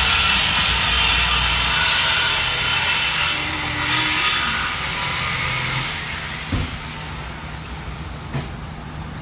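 A power tool cutting through a steel exhaust pipe, a loud, steady grinding noise that dies away about six seconds in. Two short knocks follow.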